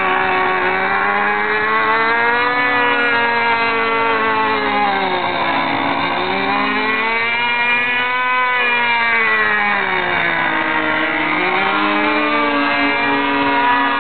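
DLE-30 single-cylinder two-stroke gasoline engine on a radio-controlled aerobatic plane, spinning an 18x8 wood propeller in flight. Its pitch rises and falls in slow sweeps as the plane manoeuvres and passes.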